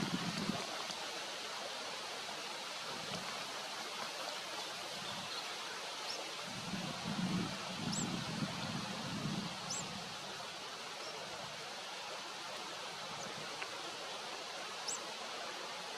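Steady outdoor background hiss with a few faint, brief high-pitched chirps scattered through it, and some soft low rumbles a few seconds in.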